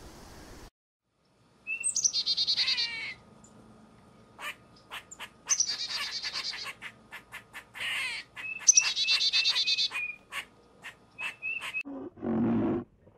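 A songbird singing: three quick, high trills, each about a second long, with sharp short chip notes between them. Near the end comes a lower, louder animal call.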